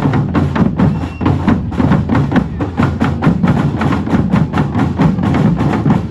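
Drum band playing a fast, even percussion rhythm with drums and sharp wood-block-like clicks. It stops abruptly at the very end.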